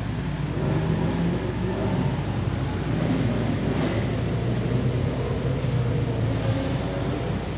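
Engines of cars lapping a race circuit, heard from a distance over a steady low rumble, their pitch rising and falling as they accelerate out of the corners.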